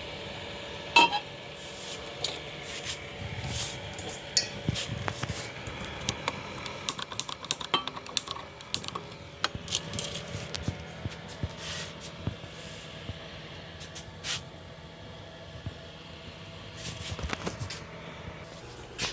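Cooking utensils clinking and scraping against a pan and dishes, with many short sharp clicks, the loudest about a second in, over a faint steady hum.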